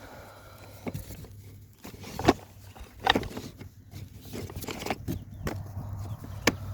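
Beehive kit parts being handled and set down: a few sharp knocks and clatters, scattered irregularly, over a low steady hum.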